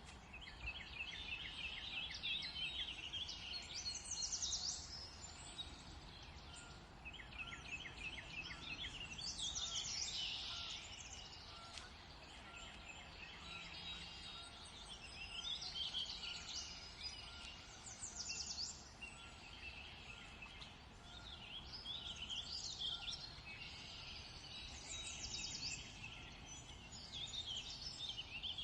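Songbirds singing in phrases every few seconds, some of them fast trills of evenly repeated notes, over a steady low background hiss.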